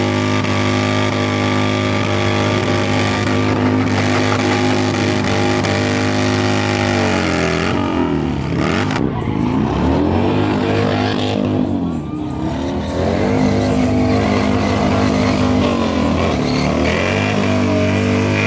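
A stunt motorcycle's engine held at steady high revs for several seconds, then dropping and climbing in pitch several times as the throttle is worked.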